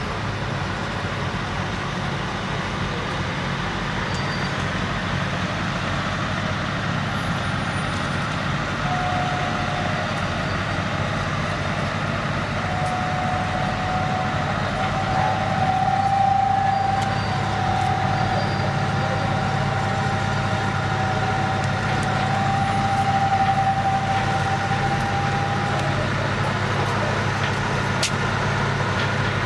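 Heavy truck engine running steadily with road noise. A steady high whine comes in about nine seconds in and holds until a few seconds before the end.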